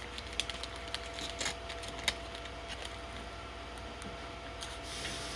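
A few faint, scattered clicks and light taps, the sharpest about two seconds in, over a steady low room hum.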